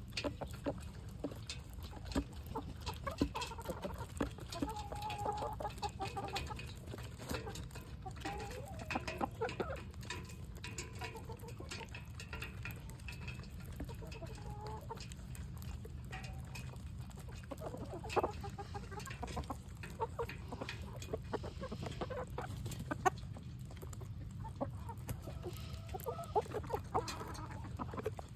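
Flock of chickens clucking as they feed, with many short calls scattered throughout and frequent short taps. A steady low hum sits underneath.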